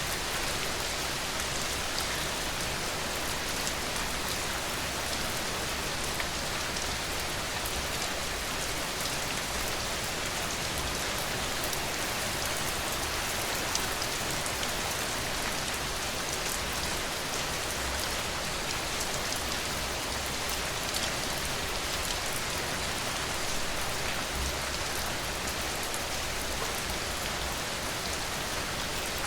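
Steady rain falling, with the patter of individual drops ticking on a surface.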